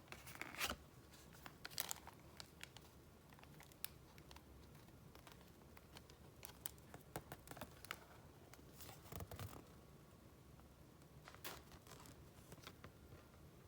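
Faint, sparse rustling and light crisp taps of paper being handled, a few short crinkles spread across the stretch with quiet gaps between.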